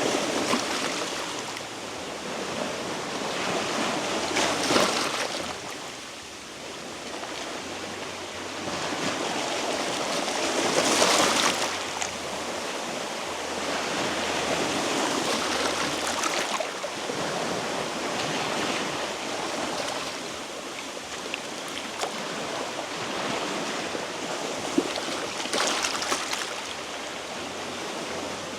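Sea waves washing in on a rocky shore. They swell and recede every few seconds, and the loudest surge comes about eleven seconds in.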